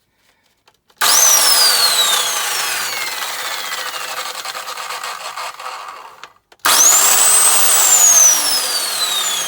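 Electric chop saw motor switched on twice. Each time it starts with a high whine that quickly peaks, then sinks steadily in pitch. The first run cuts off suddenly after about five seconds and the second keeps going. The saw was handed over as "a bit ropey".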